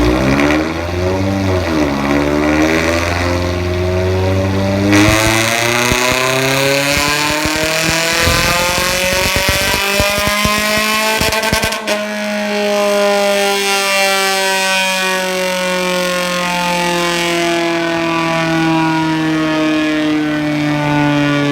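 Toyota Vios four-cylinder engine breathing through a full straight-flow exhaust, pulled hard so the revs climb steadily for about seven seconds in a full-throttle power run. It is then let off sharply and the revs wind down slowly as it coasts.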